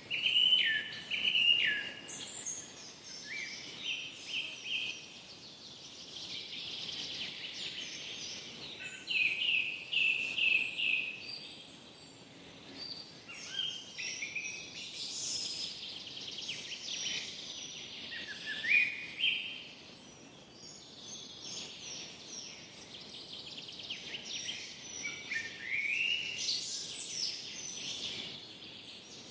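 Several songbirds singing and calling over a faint background hiss of forest ambience: chirps, rapid trills and short rising and falling whistles, one after another without pause.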